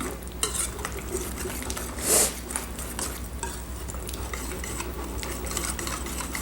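Wire whisk beating a thin liquid marinade in a bowl: quick, continuous scraping and clinking of the wires against the bowl, with one louder swish about two seconds in.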